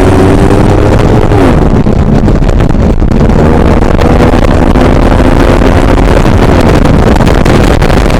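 Car engine at full-throttle acceleration, loud enough to overload the microphone. The pitch climbs, drops once about a second and a half in as at a gear change, then holds high and steady.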